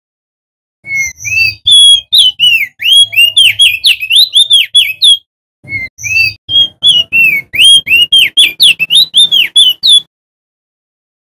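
Male opior jambul (crested white-eye) singing: two bouts of a rapid run of clear, slurred whistled notes, each note swooping up and down, about four or five a second, with a brief pause between bouts.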